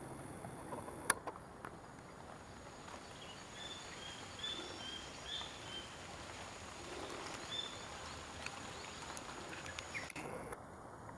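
Quiet field ambience with a few short, high bird chirps in the middle, and a single sharp click about a second in.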